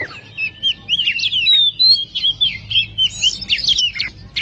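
Oriental magpie-robin (kacer) singing a fast, varied run of loud whistles, slides and chirps.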